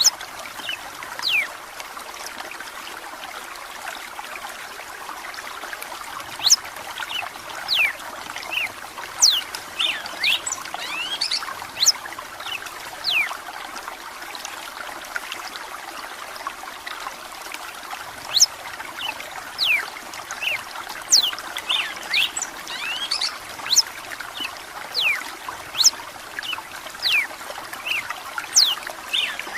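Red-cowled cardinal singing phrases of short, sharp whistled notes, with pauses of a few seconds between them, over a steady trickle of running water.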